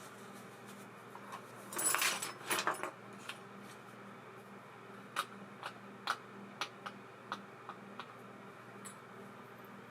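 Small metal parts of a baitcasting reel being handled on a workbench: a short clatter about two seconds in, then a string of single sharp clicks a few seconds later.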